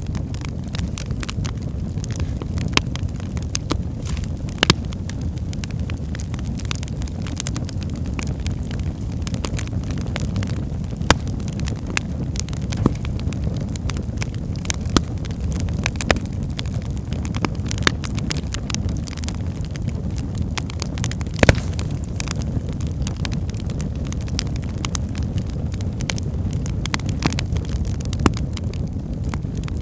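Wood fire burning in a fireplace: a steady low rumble of the flames with irregular sharp crackles and pops of the burning logs, one loud pop a little past two-thirds of the way through.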